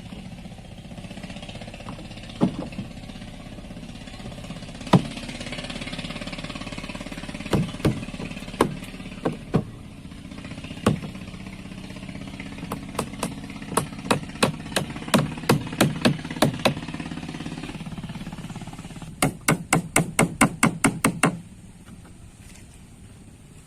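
Repeated hammer blows: scattered sharp knocks, then a steady run of about three or four a second, and near the end a quick flurry of about five a second. A steady motor hum runs underneath until a few seconds before the end.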